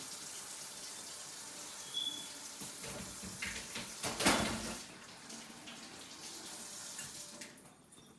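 Kitchen sink tap running while hands are washed under it, with a louder, splashier stretch in the middle. The water dies away near the end, as the tap is turned off.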